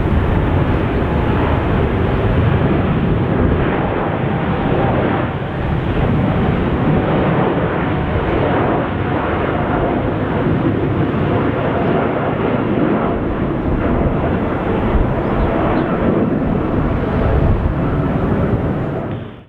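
Jet airliner's engines at takeoff power, a loud steady rumble that cuts off suddenly at the end.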